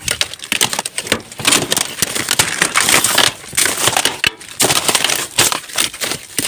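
Hands rummaging through rubbish in a bin: an irregular, continuous clatter and rustle of discarded items being pushed about and knocking together.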